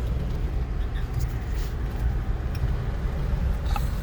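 Steady low road rumble of a car being driven, heard from inside the cabin, with a few faint ticks.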